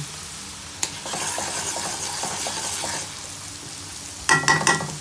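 Minced garlic and onion sizzling in hot butter and oil while a spoon stirs and scrapes them around the pan. There is a sharp click about a second in, and a few sharp clinks that ring briefly near the end.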